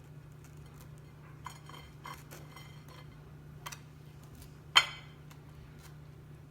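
Knife and dishes clinking and knocking as sandwiches are made: a few light clicks, then one sharp, louder clink nearly five seconds in, over a low steady hum.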